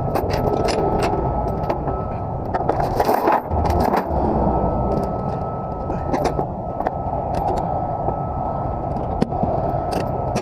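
An engine running steadily as a low rumble with a constant high whine, under repeated sharp metallic clinks and rattles.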